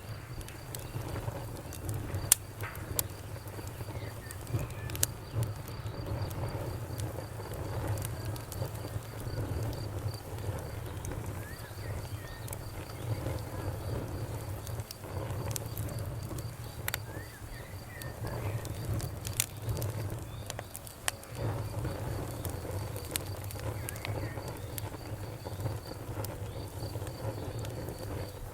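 Wood fire crackling, with sharp pops scattered irregularly over a low, steady rumble of burning; one pop stands out about two seconds in.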